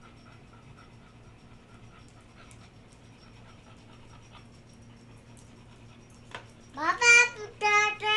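A toddler's two loud, high-pitched, drawn-out squeals near the end, after several quiet seconds with faint light ticks.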